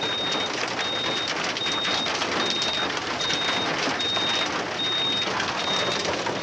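A vehicle's reversing alarm beeping, one high steady tone about eight times, evenly spaced a little under a second apart, over a loud steady rushing noise.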